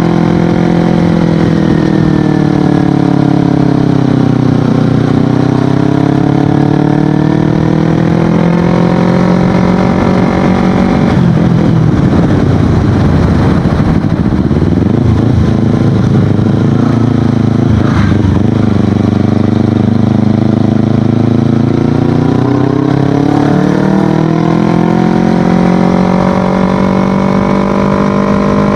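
Kawasaki Ninja 250FI parallel-twin running through an Akrapovic aftermarket exhaust while being ridden. The engine note falls over the first few seconds as the bike slows and settles low. Gusty wind noise on the microphone covers it for several seconds, and the note climbs again near the end as the bike accelerates.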